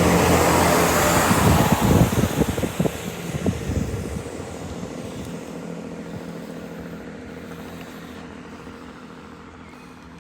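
Class 165 diesel multiple unit pulling away, its diesel engines droning and fading steadily into the distance, with a quick run of wheel clacks over the track about two to three seconds in.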